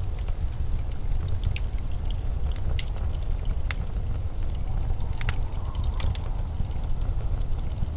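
Steady low rumble of blizzard wind, with scattered, irregular sharp ticks and crackles over it.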